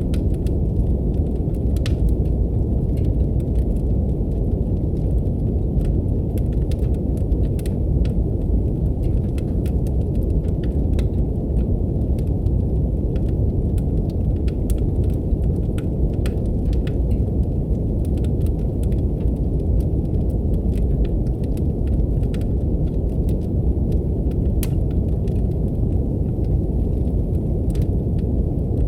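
Brown noise, a steady deep hiss, layered with a wood fire crackling in a fireplace. Scattered small sharp pops and snaps come at irregular moments over the constant noise.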